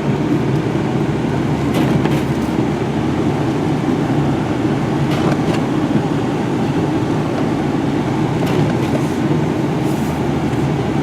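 Steady low rumble of a four-wheel-drive Ram 3500 dually pickup heard from inside the cab, its engine and running noise unbroken, with a few faint clicks.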